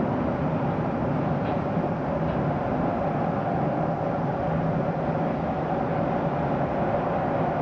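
Train running at a steady speed, heard from on board: an even, unbroken rumble of the carriage rolling along the rails.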